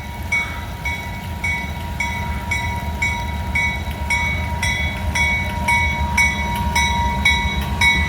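Freight train rolling past with a steady low rumble. A regular ringing repeats about three times a second over it, with a faint steady tone throughout.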